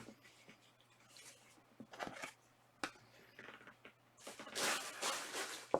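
Quiet handling of trading cards: a few soft clicks and a brief papery rustle about four seconds in as cards slide against one another, over a faint low hum.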